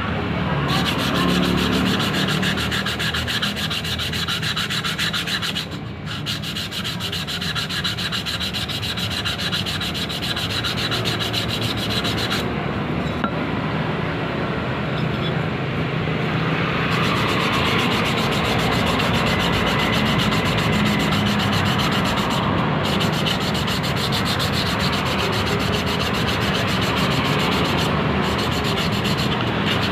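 Steady abrasive sanding on a ketinting longtail-boat propeller being repaired, running continuously with a brief dip about six seconds in.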